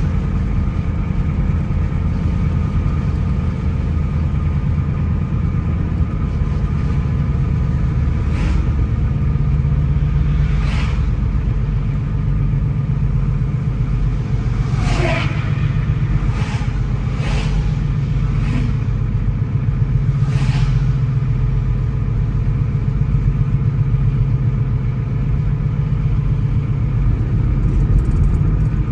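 A car driving along a road: steady engine and tyre noise, with the engine note rising slightly now and then and several brief sharp swishes or knocks through the middle.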